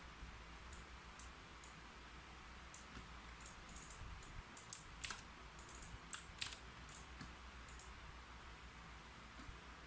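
Typing on a keyboard: irregular light key clicks in quick runs with short pauses, busiest in the middle.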